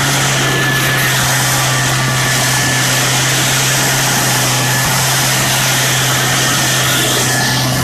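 An engine running steadily at an even speed: a constant low drone under a loud, noisy hiss, with no change in pitch.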